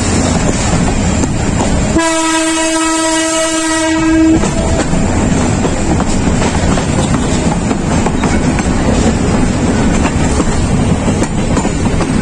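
Running noise of a moving passenger train heard from its open doorway. About two seconds in, a locomotive horn sounds one steady note for about two seconds.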